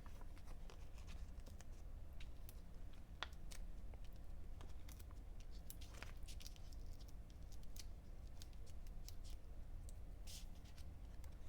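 Faint scattered clicks and light rustles of paper and foam adhesive dimensionals being handled while a stamped piece is mounted onto a card, over a steady low hum.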